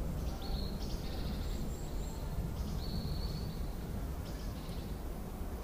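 Birds chirping a few times in short high calls over a steady low background rumble.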